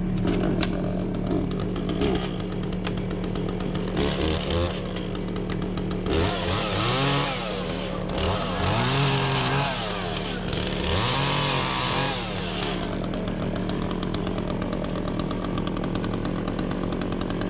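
Echo CS-400 two-stroke chainsaw revved up hard three times, each rev climbing, holding, then dropping back, with a rasping hiss while at speed. A steady engine drone runs underneath.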